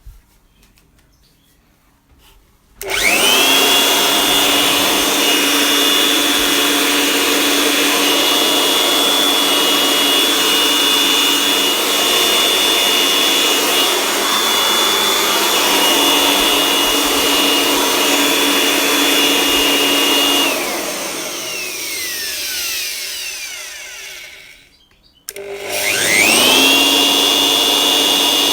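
Catpower 221 electric blower's brushed motor switched on about three seconds in, spinning up quickly to a loud, steady high whine. After about twenty seconds it is switched off and winds down with a falling whine, then is switched on again and spins back up.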